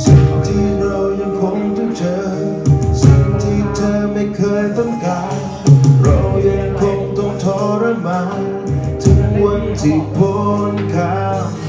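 A band playing an instrumental passage of a pop-rock song: a lead melody line that slides in pitch over drums and bass.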